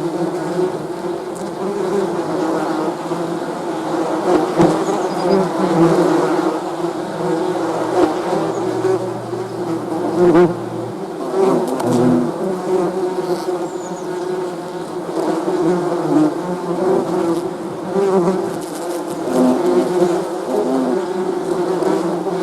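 Many bees buzzing together: a dense, steady hum of overlapping wingbeat tones that wavers as individual bees come and go. A lower-pitched buzz joins for a few seconds midway.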